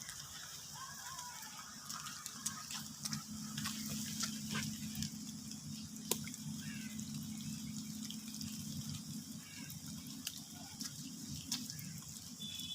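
Rain with scattered drops and drips landing close by, over a steady low hum.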